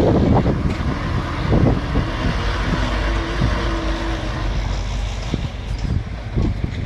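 Bulldozer's diesel engine running steadily while it works the ground, with irregular surges of low rumble.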